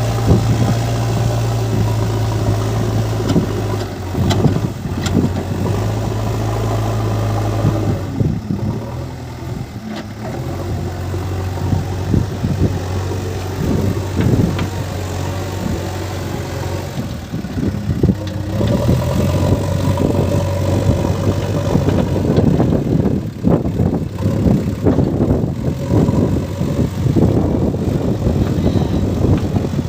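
Diesel engine of heavy machinery running steadily, its low hum easing off about a quarter of the way in and coming back past the middle, with scattered knocks and clatter throughout.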